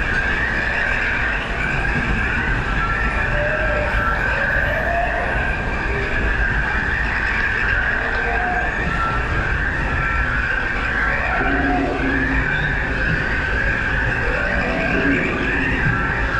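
Disneyland Railroad narrow-gauge train rolling along the track: a steady rumble of wheels on rails under a continuous high, hissing squeal.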